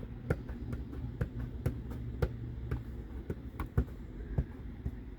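A series of sharp, unevenly spaced clicks, about two a second, over a steady low hum.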